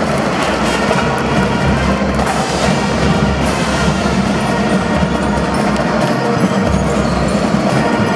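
Marching drum band playing: drums under a melody on pitched instruments, continuous and loud.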